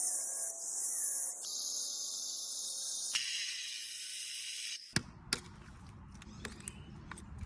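A high, steady buzz that cuts in and out abruptly, then from about five seconds in sharp, separate knocks over a low background noise, typical of chipping out concrete around a pool skimmer.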